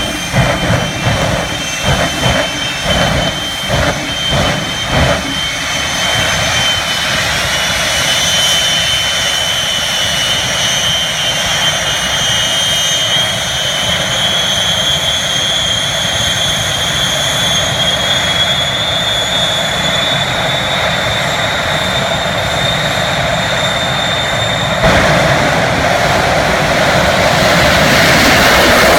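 Jet engines of the Shockwave jet truck, three Westinghouse J34 turbojets. For the first few seconds the sound pulses in bursts about twice a second. It then settles into a steady roar with a high turbine whine that slowly rises in pitch, and gets louder near the end.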